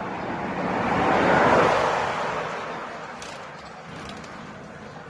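A vehicle passing: a rushing noise that builds to a peak about a second and a half in, then fades over the next couple of seconds.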